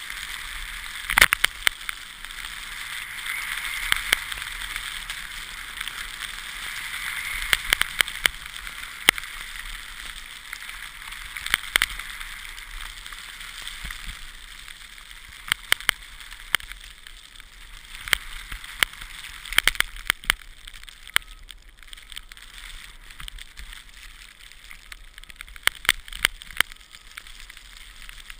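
Steady hiss of sliding over fresh snow on a ski run, with irregular sharp clicks and knocks scattered throughout.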